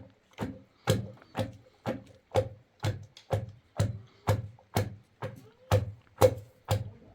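Steady, evenly paced striking with a hand tool, about two blows a second, each a sharp knock with a brief ring.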